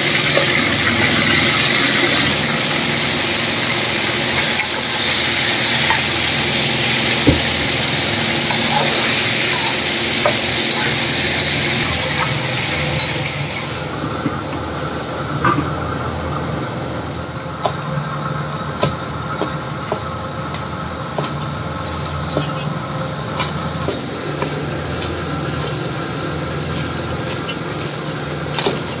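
Duck pieces sizzling in oil in a wok while a metal spatula stirs them. About fourteen seconds in, the wok is covered and the sizzle drops to a duller, quieter frying sound. Scattered sharp knocks follow, knife strokes on a bamboo cutting board.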